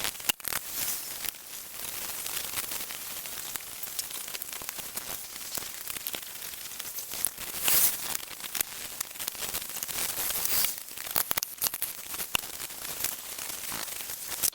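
A brush scrubbing paint stripper over the metal of an old monkey wrench: a dense scratchy crackle with many sharp clicks.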